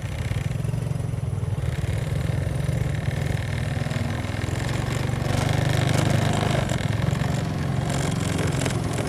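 Honda Supra X motorcycle engine running steadily under way, picking up a little about five seconds in, with light rattling over it.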